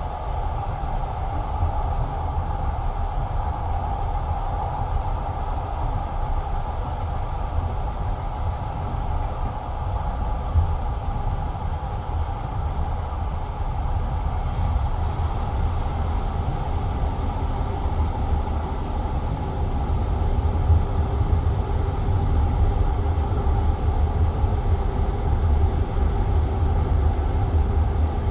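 Passenger train carriage rolling along the line: steady rumble of the wheels on the rails with occasional knocks, heard from inside the carriage, growing a little louder in the second half.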